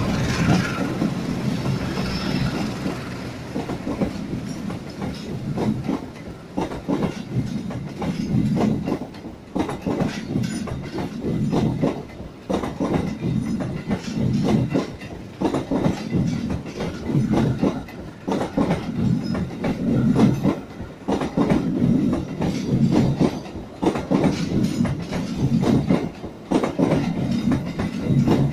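A CC 201 diesel-electric locomotive and its train of passenger coaches running through at speed close by, loudest at the start as the locomotive goes past. The coach wheels then clatter over the rail joints in repeated clusters of clicks, a steady clickety-clack.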